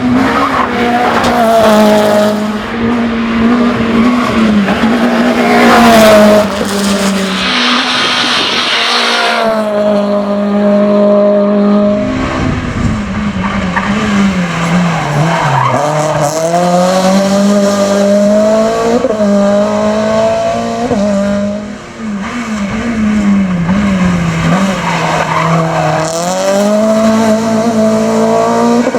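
Renault Clio hill climb race car engine revving hard, its pitch climbing and falling again and again with gear changes and lifts for corners, with tyres squealing at times.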